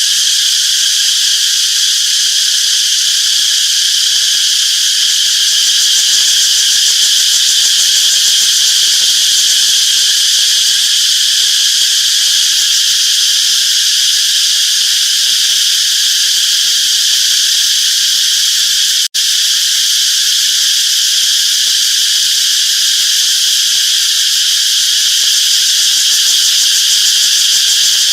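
A chorus of cicadas shrilling steadily and loudly, a dense high buzz that cuts out for an instant about two-thirds of the way through.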